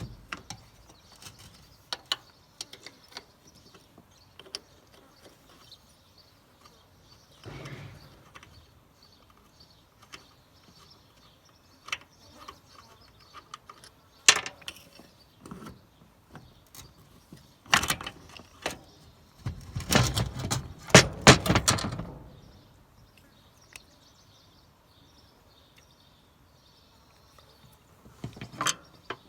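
Hand tools clicking and knocking on metal while a starter solenoid is worked loose from the starter, with a burst of louder knocks and rattles about two-thirds of the way in.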